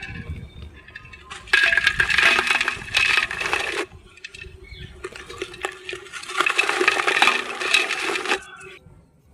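Terracotta clay being crushed, crumbling with a dense crackle of many small cracks and clinks. It comes in two long bursts, the first about a second and a half in, the second past the middle, with quieter crackling between.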